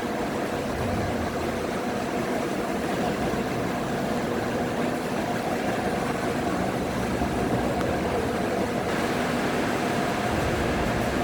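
A 1980s Ciclone ceiling fan running: a steady motor hum with a couple of steady tones over an even rush of air.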